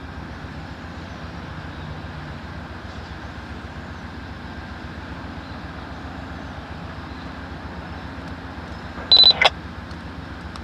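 EMD SW9 switcher locomotive's diesel engine running steadily with an even low rumble. About nine seconds in, a handheld scanner gives one short loud burst of squelch with a high tone, just before crew radio talk comes through.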